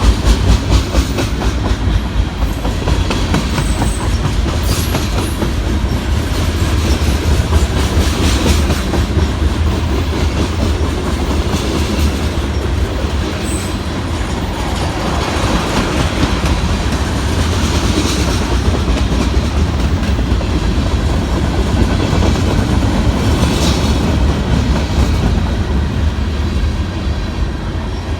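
Cars of a Norfolk Southern manifest freight train rolling past, steel wheels clacking steadily over the rail joints, with a few brief high squeaks.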